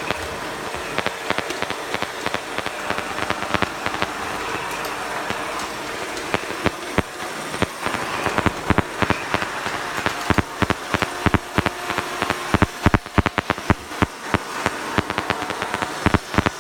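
Robot vacuum cleaners running with a steady motor and brush whir, over many irregular sharp clicks and knocks that come thicker in the second half.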